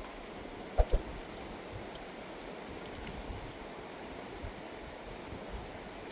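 River water flowing steadily, with two dull thumps in quick succession about a second in.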